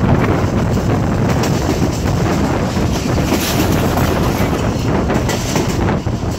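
Wind rushing over the microphone at an open window of a moving passenger train, over the steady running noise of the train on the track.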